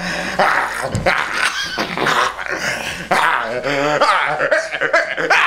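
A person making strange non-verbal noises with his voice: wavering, pitched sounds that slide up and down, animal-like in character.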